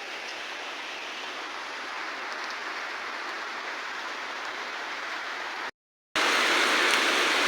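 Steady rain falling, an even hiss of drops on surfaces. It cuts out abruptly for about half a second near the end, then returns louder.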